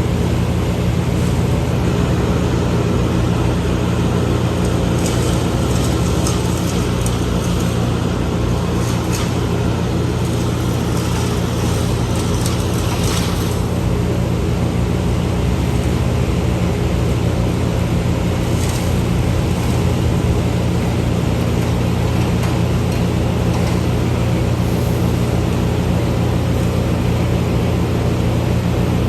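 A large engine running steadily at a constant speed, with a deep hum. A few light clicks come through in the first half.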